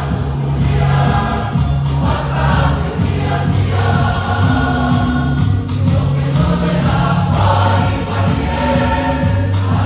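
A Samoan church choir singing a hymn in parts, with long held notes that change every second or so.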